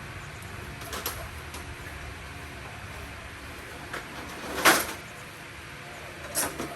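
A few short clunks over a steady background noise: small ones about a second in, the loudest a little past the middle, and another near the end.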